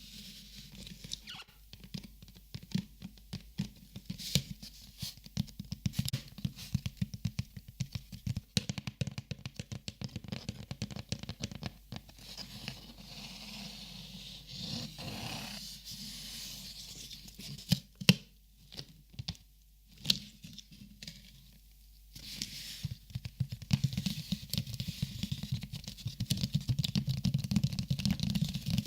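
Plastic Copic markers being handled and sorted: many quick, irregular taps and clicks of the marker barrels and caps. A stretch of rustling comes about halfway through, two sharper clicks follow a few seconds later, and denser tapping and rustling come near the end.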